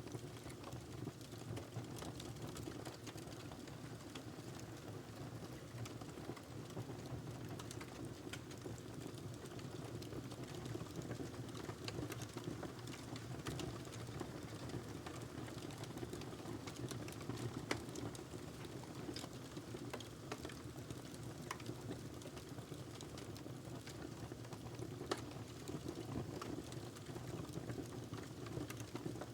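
Wood fire burning in a fireplace, crackling: irregular sharp pops and snaps over a steady low rumble of the flames, with a louder pop near the end.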